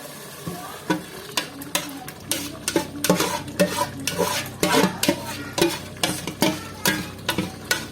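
A spoon repeatedly knocking and scraping against a pot, about three strokes a second, with frying oil sizzling underneath.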